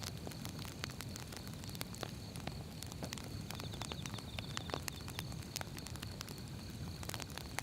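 Wood fire burning: firewood crackling and popping in sharp, irregular snaps over the steady low rumble of the flames.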